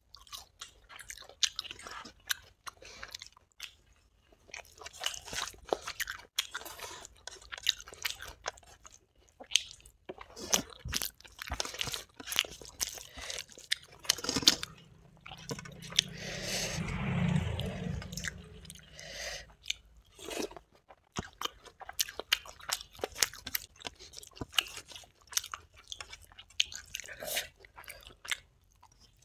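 Close-up chewing and crunching of crispy fried brinjal slices and rice with dal, eaten by hand: a dense run of crisp crackles, bites and mouth sounds. About halfway through there is a longer, lower sound lasting about two seconds.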